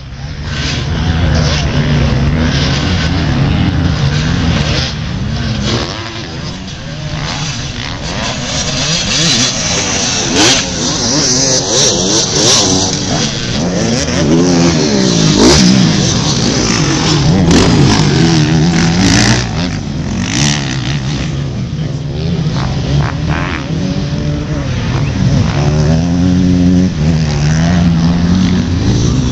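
250-class motocross bikes racing, their engines revving up and falling off again and again as they accelerate and shift around the dirt track, with several bikes overlapping in the middle.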